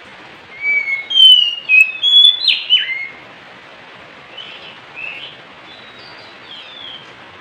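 Oriental magpie-robin singing: a loud run of clear whistled notes and quick downward slurs for about two seconds, then a few softer notes, over a steady hiss.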